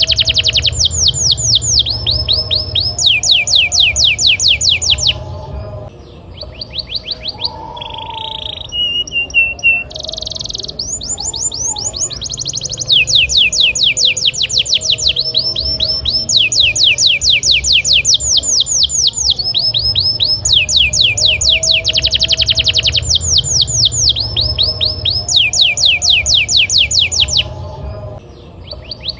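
Domestic canary singing a loud, fast rolling song: long runs of rapid, evenly repeated notes, each sweeping down in pitch, delivered in tours of several seconds. The runs break off briefly about six seconds in and again near the end.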